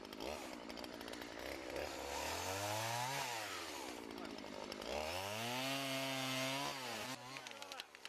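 An engine revving up and down twice, its pitch climbing to a peak and falling away each time.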